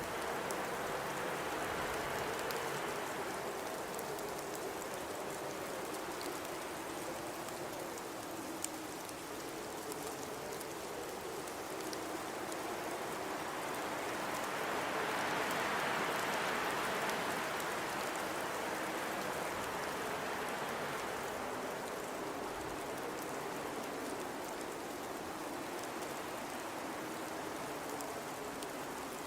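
Blizzard wind blowing steadily, swelling into stronger gusts about two seconds in and again around the middle, with a faint low howl running underneath.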